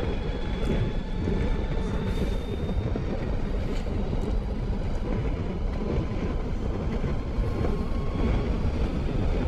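Motorcycle engine running steadily under way, mixed with wind rush and road noise.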